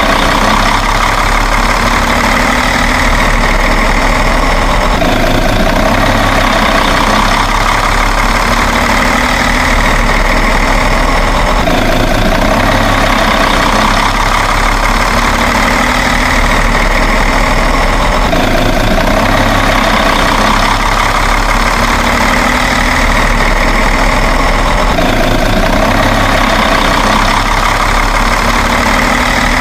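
Steady truck-engine idling sound, repeating the same pattern about every six and a half seconds like a looped sound effect.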